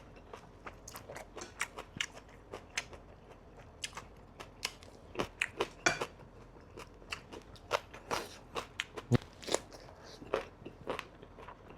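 Close-up chewing and crunching of a boiled-pork wrap with fresh herbs and raw vegetables: irregular crisp bites and wet mouth sounds, with one louder crunch about nine seconds in.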